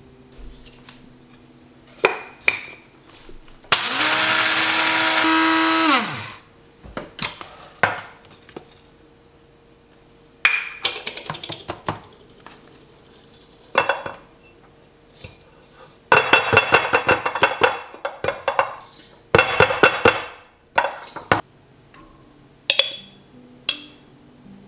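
A small electric kitchen appliance motor runs for about two seconds, its pitch rising slightly just before it is switched off and spins down. Sharp clinks and knocks of kitchenware follow at intervals.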